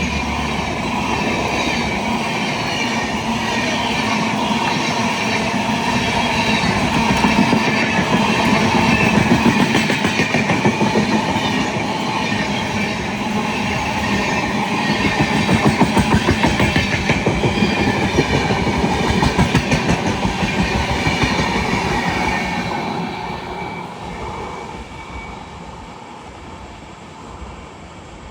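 A passing train's wheels clattering over the rail joints in a steady rhythm, which dies away over the last few seconds as the train moves off.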